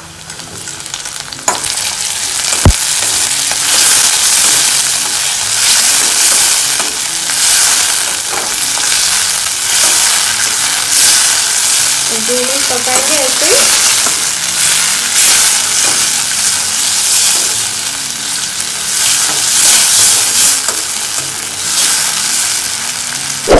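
Chopped tomatoes sizzling in hot oil with onions in a stainless-steel kadai, stirred with a slotted spatula. The sizzle swells and eases with the stirring, and there is one sharp knock about three seconds in.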